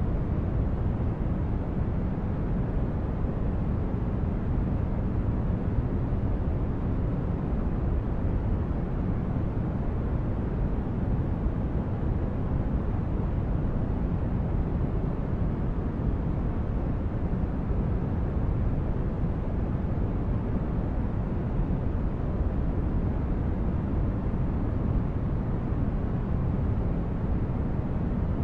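Steady white-noise sleep sound, a constant deep hiss weighted toward the low end with little high treble, unchanging throughout.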